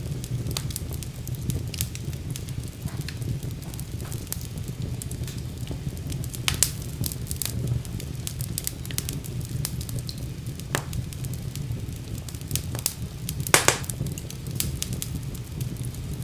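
Wood fire burning in a fireplace: a steady low rumble of flames with scattered crackles and sharp pops, the loudest pop about three seconds before the end.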